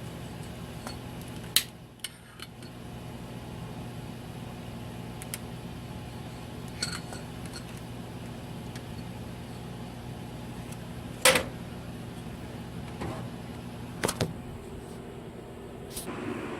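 Steady low hum with a handful of sharp clicks and knocks, the loudest about eleven seconds in, from glass mason-jar candle holders being handled and set down.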